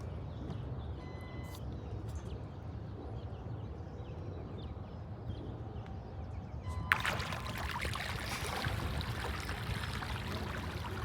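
Outdoor wind and water noise with a steady low rumble. About seven seconds in there is a sharp click, and a brighter hiss takes over.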